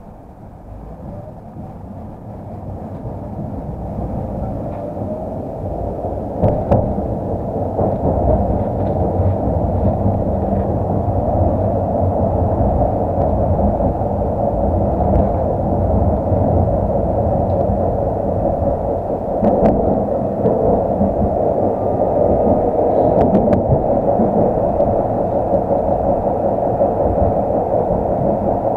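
Tram running on its rails, heard from inside the car: it pulls away, the noise building over the first several seconds, then a steady rumble of wheels and traction motor with a few sharp clicks and knocks.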